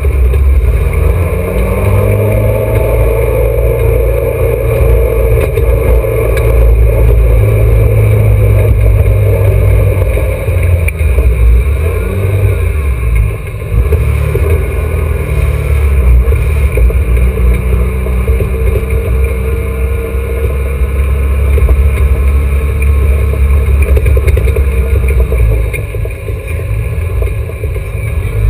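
Alfa Romeo GTA's twin-cam four-cylinder racing engine heard from inside the cabin, loud and low, its revs rising and falling a few times as it pulls through the gears at low speed, then held fairly steady.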